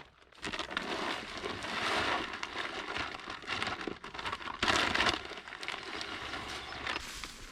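Granular deer feed pouring from a bag into a deer feeder, a steady rain-like hiss with a louder surge about five seconds in.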